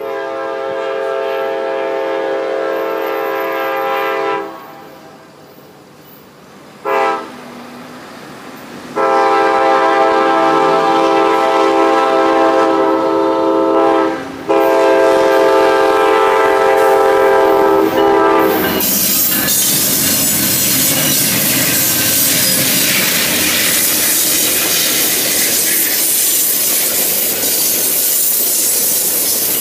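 Amtrak P42DC diesel locomotive horn sounding a chord in separate blasts for a grade crossing: a long blast, a short toot about seven seconds in, then two more long blasts. From about eighteen seconds in, the locomotives and stainless-steel passenger cars pass close by with a loud, steady rumble and clatter of wheels on the rails.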